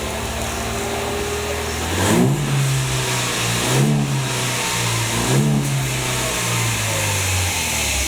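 2002 Mercedes Vito 2.0-litre engine idling, then revved three times about a second and a half apart, each rev rising quickly and dropping back to idle.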